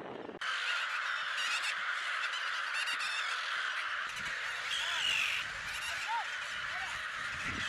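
A large breeding colony of gulls calling: a dense chorus of many overlapping calls that starts abruptly about half a second in.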